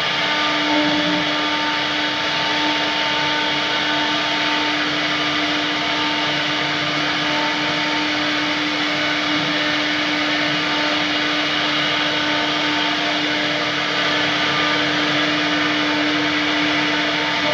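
CNC wood router running, its spindle giving a steady whine over an even rushing noise.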